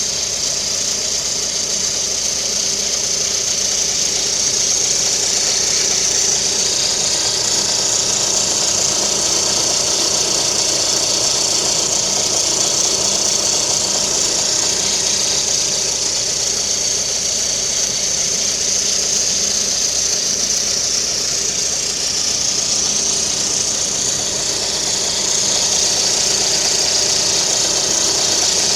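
Lada Kalina's VAZ-11194 1.4-litre 16-valve engine idling with the timing-belt cover removed. The timing belt gives a steady high-pitched whistle over the engine's running.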